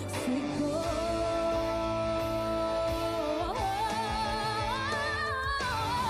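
Slow ballad: a woman sings long held notes with vibrato over soft instrumental backing. Her voice climbs higher about halfway through and again near the end.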